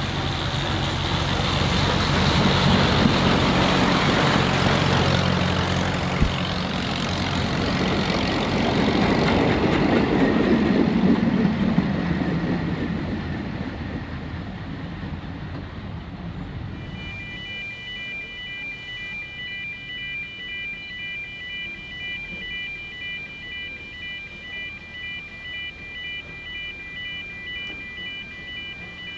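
A narrow-gauge train running past and away along the track, with a steady low drone and rumble that swell and then fade over the first half. About halfway in, a road level-crossing warning alarm starts up, high electronic beeps repeating steadily about once a second.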